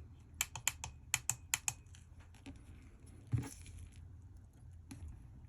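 Small sharp clicks: a quick run of about eight in the first two seconds, then two single clicks further apart.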